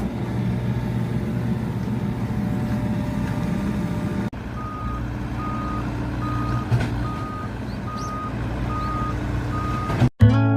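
Excavator engine running steadily. Partway through, a motion warning alarm starts beeping at one steady pitch, seven beeps about two-thirds of a second apart. Guitar music comes in at the very end.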